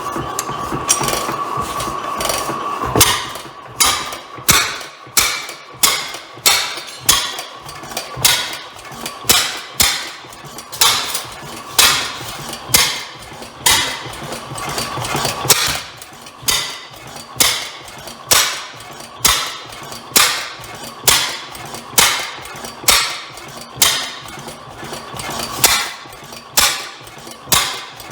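Old Bovard & Company engine being turned over without firing: evenly spaced sharp clacks, a little more than once a second. A steady hiss runs for about the first three seconds and then stops.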